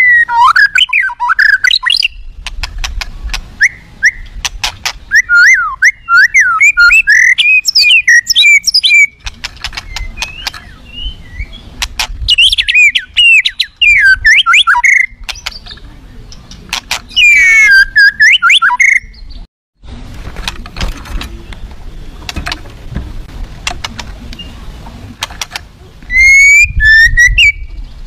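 White-rumped shama (murai batu) singing loudly in bursts of fast, varied whistled and chattering phrases, with short pauses between bursts. It is singing in an aggressive, full-repertoire style, with mimicked phrases (isian).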